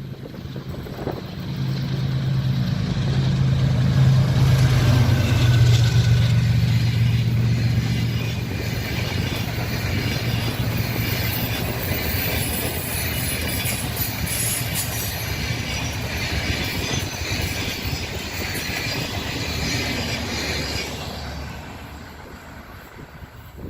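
A diesel-hauled train passing: the locomotive's engine drone builds and peaks as it goes by, then the cars roll past with steady wheel-and-rail clatter that fades away near the end.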